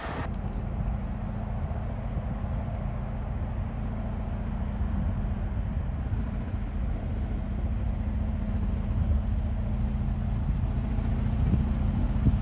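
A train approaching from a distance: a steady low rumble with a low hum in it, slowly growing louder.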